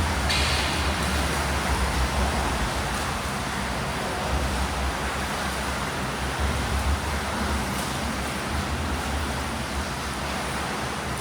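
Swimming pool ambience: a steady wash of water noise from swimmers over a low hall rumble.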